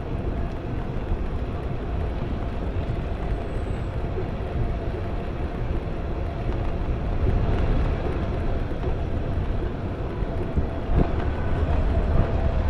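Wind rushing over the microphone while riding an electric bicycle, a steady low rumble with a faint steady tone running under it and a single click near the end.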